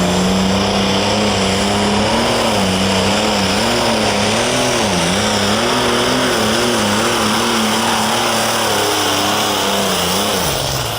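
Light Limited Super Stock pulling tractor's turbocharged diesel engine at full power during a pull. The engine note holds steady at first, then wavers rapidly up and down for most of the run as the engine speed bobs under the load. Near the end the pitch drops as the run finishes and the throttle comes off.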